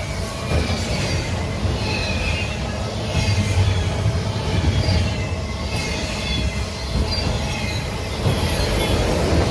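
A train rolling past with a steady low rumble, its wheels giving short, scattered high-pitched squeals against the rails.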